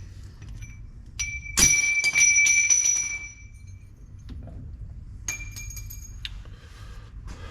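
Metal hand tools clinking against metal, with a bright ringing tone. The loudest strike comes about a second and a half in and rings on for over a second. A second set of ringing clinks follows about five seconds in.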